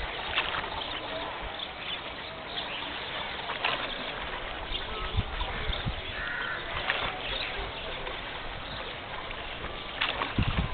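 River ambience heard from a rowboat: a steady hiss with scattered light knocks and small splashes, and a short call about six and a half seconds in.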